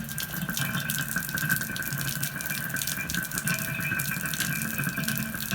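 Running water splashing steadily, with faint steady high tones over it.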